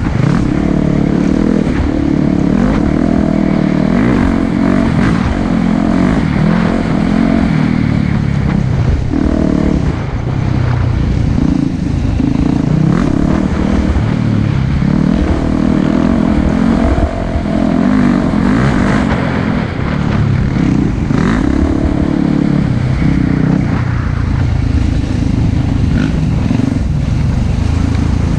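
Four-stroke dirt bike engine being ridden hard on a trail. Its pitch rises and falls over and over as the rider works the throttle and shifts.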